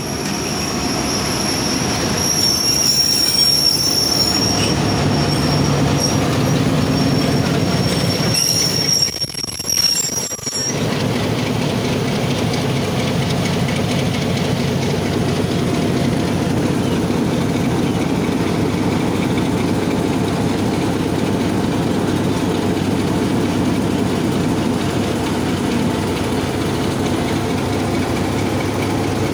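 Passenger train rolling slowly past close by, led by a Hitachi PHA-20 diesel-electric locomotive. A high, steady wheel squeal rings over the rumble for about the first ten seconds, then the coaches roll by with a steady rumble.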